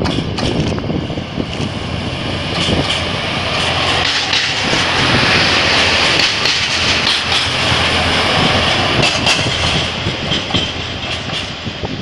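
A diesel multiple unit passing close by: engine running and wheels clattering over the rail joints. The sound is loudest around the middle as the cars go past, then eases as the train pulls away.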